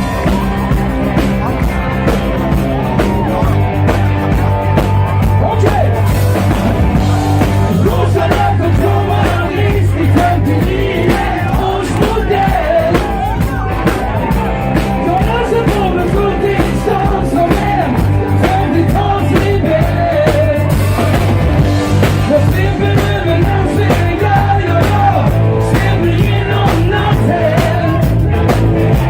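Live band music with a steady drum beat and bass, and a melody line moving over it.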